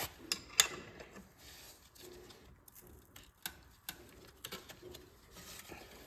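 Scattered light clicks and taps at irregular intervals, the sharpest a little over half a second in and a few more around the middle: hand tools being handled during engine work.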